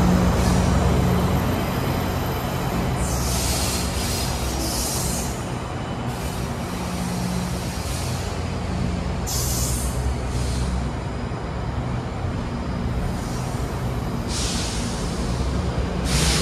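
GO Transit bilevel commuter train rolling past along the platform: a steady rumble of wheels on rail under a low engine hum, loudest at first and easing off as it moves away. Several short bursts of hiss break through it.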